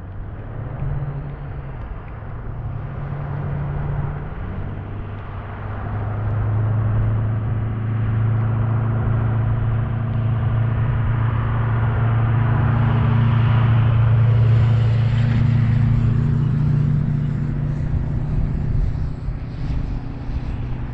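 A motor vehicle's engine labouring slowly up a hill past the bicycle, a steady low hum that grows louder to a peak just past the middle and then eases off.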